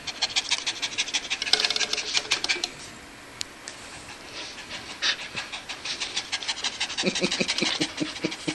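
Sheepdog panting fast and evenly, about six breaths a second, with a chugging rhythm like a steam train. It eases off for a couple of seconds about three seconds in, then starts again.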